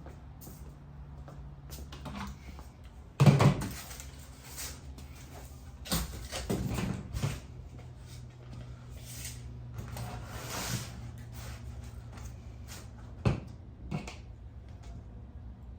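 Several irregular knocks and thumps against a metal garage door while styrofoam insulation panels are pressed into it, the loudest about three seconds in and a cluster of smaller bumps a few seconds later, over a steady low hum.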